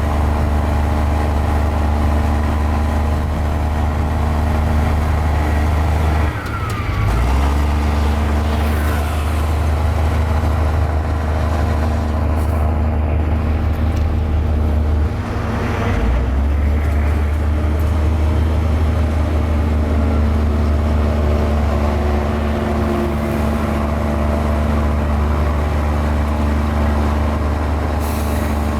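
Mini Komatsu bulldozer's diesel engine running steadily under load. The engine note dips and shifts briefly twice, about six seconds in and again about fifteen seconds in.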